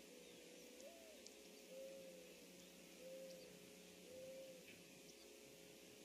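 A bird's low, faint cooing song: a first note with an upward lift, then three steady coos about a second apart.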